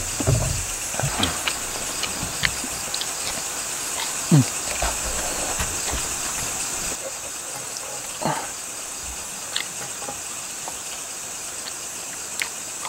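Steady high-pitched chirring of night insects such as crickets in the forest, easing a little about halfway through, with scattered small clicks and two short sliding sounds that fall in pitch, about four and eight seconds in.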